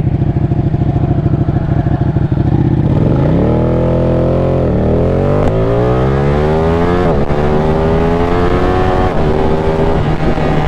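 Ducati Panigale 899's V-twin engine heard onboard: a steady low note for about three seconds, then a sharp rev up and back down, then the note climbs through the gears with two quick upshifts before settling on a steadier, higher note.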